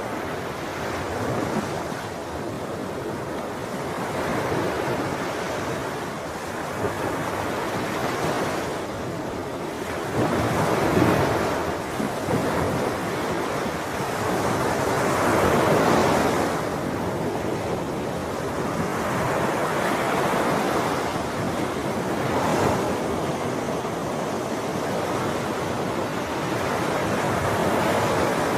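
Ocean waves breaking and washing on a shore, a steady rush of surf that swells and ebbs every few seconds, with two stronger surges partway through. Some wind noise on the microphone.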